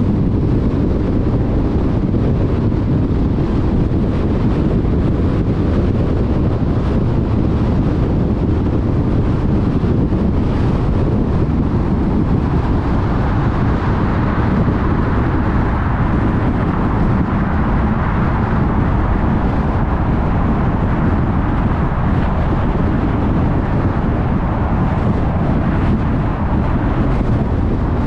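Car driving at freeway speed: steady tyre and road noise with wind rush over a low rumble. The higher hiss grows louder from about twelve seconds in, for several seconds.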